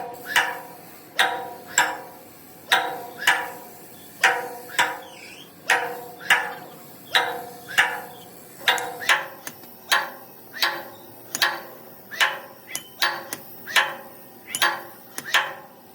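Hammer blows on metal, about two a second and often in quick pairs, each strike ringing briefly at the same few pitches.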